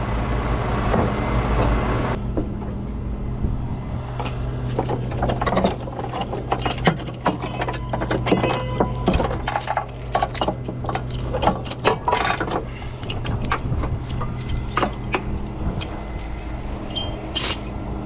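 Tow truck running with a steady hum. A hissing layer cuts off about two seconds in, followed by many scattered metallic clinks and rattles.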